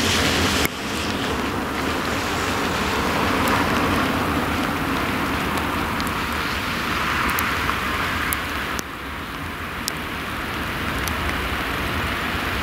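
Passenger train hauled by an EP09 electric locomotive approaching: a steady rumble and rush of wheels on rails, with a few faint sharp clicks.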